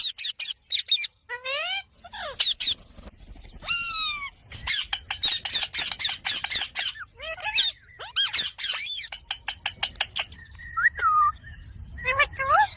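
Pet green parrot chattering: quick runs of sharp chirps and clicks mixed with whistled calls that slide up and down in pitch, with a short lull near the end.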